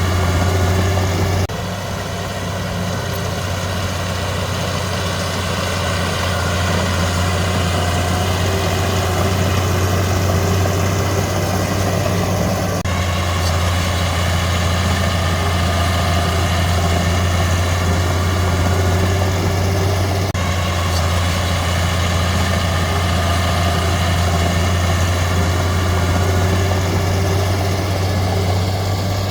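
Heavy diesel engine of earthmoving machinery running steadily at a low, even hum. The sound jumps abruptly three times: about a second and a half in, about 13 s in, and about 20 s in.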